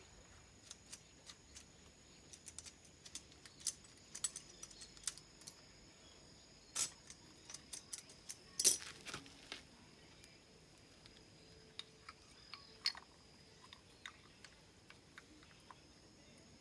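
Irregular light metallic clicks and clinks of tools and parts being handled, with a cluster of louder ones a few seconds in and around the middle.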